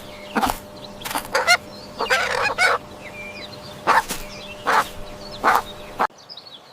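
Chickens clucking in short repeated calls, with a longer run of clucking about two seconds in and faint higher chirps behind. A steady low hum runs underneath, and the sound drops away sharply near the end.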